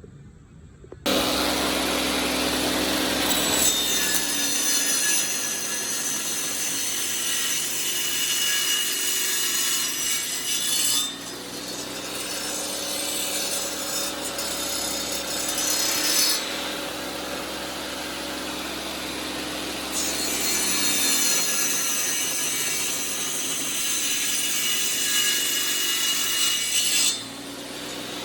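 Bench saw starting about a second in and cutting wooden planks for a beehive stand. The cutting sound eases and returns a few times as the blade goes in and out of the wood, and the saw stops near the end.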